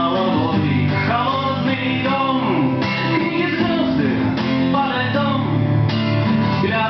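Live acoustic song: acoustic guitars strummed steadily under a male voice singing a slow, lyrical melody.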